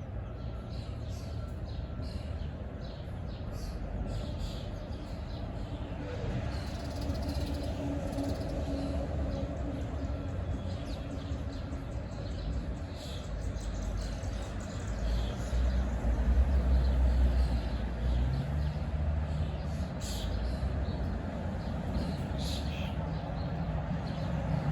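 Birds chirping in short, scattered calls over a low, steady rumble that swells for a few seconds about two-thirds of the way through.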